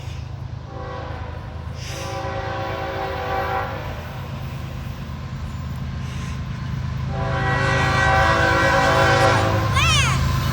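Approaching CSX freight locomotive sounding its air horn in two long blasts, one near the start and one about seven seconds in. Under them runs a low rumble of engine and wheels that grows louder as the train nears.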